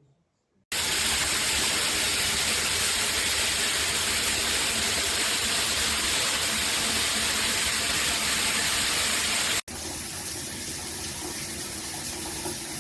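Water streaming steadily from a 12-inch square rainfall shower head, coming on abruptly under a second in. About nine and a half seconds in it breaks off for an instant, then carries on quieter and less hissy.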